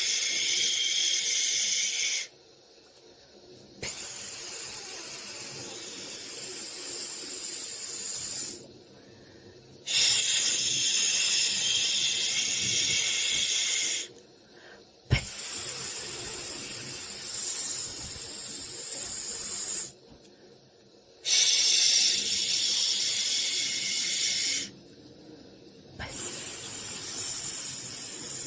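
Soothing white-noise hiss for a baby, sounding in six long bursts of about four seconds each, with a short pause of about a second between them.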